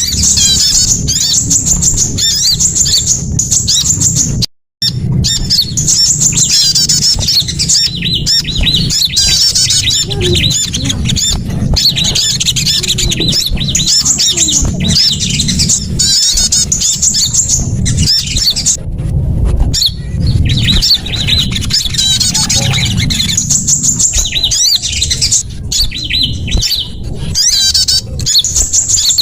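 A dense, continuous mix of small songbirds' rapid high chirps and twittering calls, played as a bird-lure call track, over a steady low rumble. The sound cuts out completely for a moment about four and a half seconds in.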